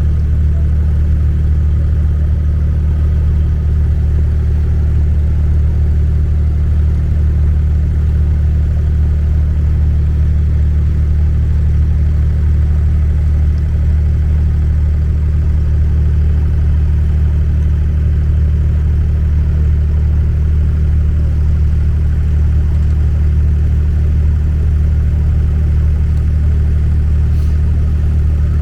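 Boat engine running at a steady speed: a loud, deep, even drone that does not change.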